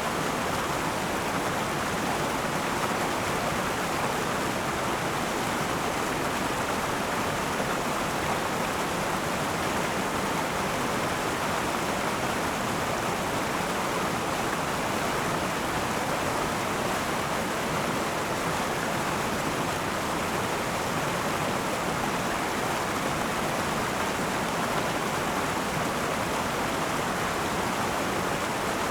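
River water flowing over rocks, a steady, even rush of running water.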